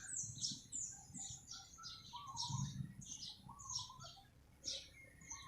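Small birds chirping in a quick, busy run of short high chirps one after another, with a few lower notes mixed in.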